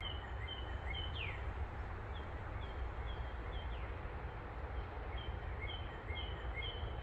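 Songbirds singing: a run of short, evenly repeated chirps at two pitches, twice broken by a quick downward-sliding whistle, over a steady low rumble.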